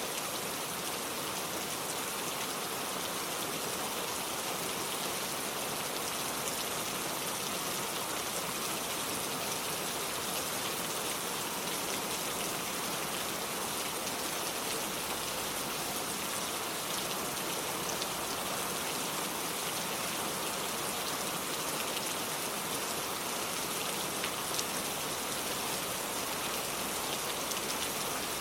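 Steady rain falling, with a dense patter of individual drops on surfaces and water.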